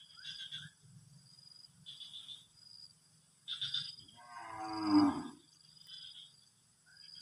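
A cow moos once, about four seconds in: a single call about a second long that rises and then falls in pitch. Quiet, repeated high chirping runs in the background.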